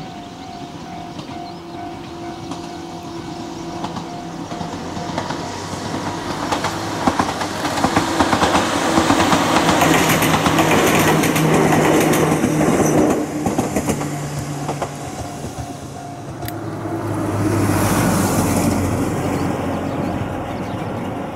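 Ohmi Railway 800-series two-car electric train approaching and passing, its motors humming and wheels clacking over rail joints, loudest about ten seconds in and then fading. A repeated ringing tone sounds during the approach, and a second, softer swell of noise comes near the end.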